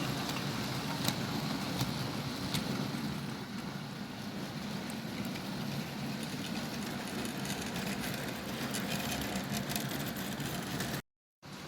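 Bachmann OO gauge BR Class 47 model locomotive running on track, its DC motor giving a steady hum with wheel rumble and occasional short clicks. The sound cuts out abruptly for a moment near the end, then resumes.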